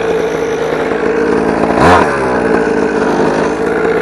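Small 50cc two-stroke mini dirt bike engine running at a steady fast idle, with one quick blip of the throttle about halfway through. The rider says the mixture isn't right yet and it isn't running flawlessly.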